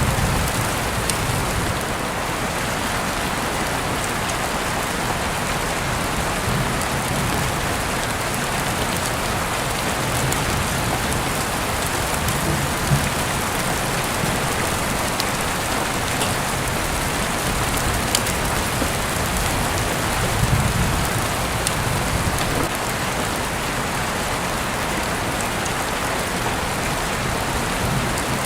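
Heavy rain falling steadily, an even hiss with scattered drop clicks. There are a few soft low swells, the clearest about twenty seconds in.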